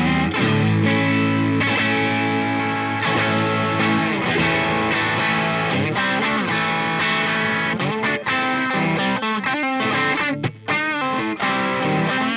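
Electric guitar with an overdriven tone through a Peace Hill FX TR tube preamp, playing chords and single-note lines. About three-quarters of the way through, held notes wobble with vibrato or bends.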